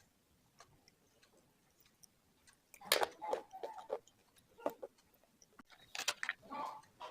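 Slate pencil being chewed: bunches of sharp, crackling crunches starting about three seconds in, after a nearly quiet stretch.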